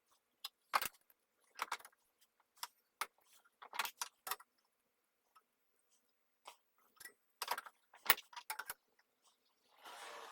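Metal tools and parts clinking and clattering at a workbench: a string of separate sharp clinks at uneven intervals, with a short scraping rasp near the end.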